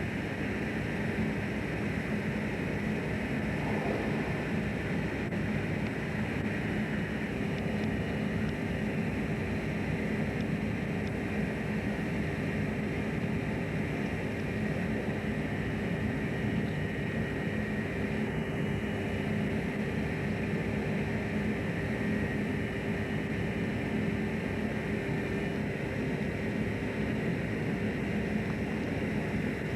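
A fishing boat's engine running steadily, heard on board: a constant drone with a few steady tones in it.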